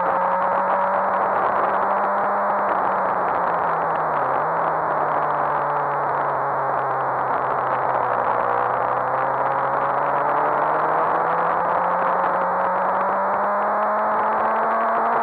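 Suzuki GSX-R1000 K7's inline-four engine at speed, under steady wind rush over the microphone. The engine note eases down gradually over the first half and then climbs steadily through the second half.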